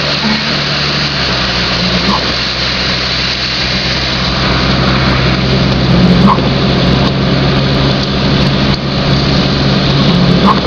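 Car driving along flooded streets: a steady engine hum under a loud, constant rushing of tyres through water. Three short squeaks come about four seconds apart.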